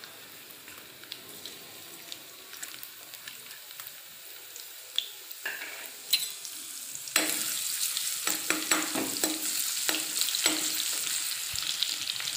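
Grated garlic sizzling in hot oil in a kadai, faint at first, then louder from about seven seconds in, with a steel ladle stirring it and repeatedly scraping and tapping the pan.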